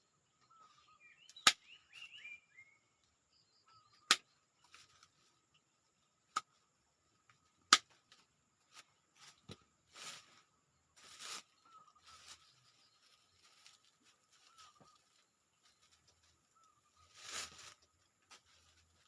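Sharp knocks of a hand tool chopping at wood and roots while digging out serut bonsai stock, four loud strikes in the first eight seconds, then softer rustling. A bird chirps early on and faint birdsong carries on behind.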